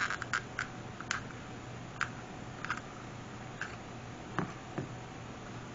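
Small, irregular clicks and taps, about a dozen over the first five seconds, from craft tools and materials being handled on a work surface.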